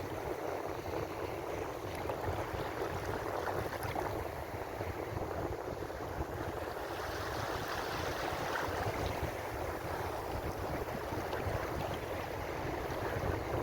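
Ocean surf: waves washing in as a steady rushing noise that swells a little partway through.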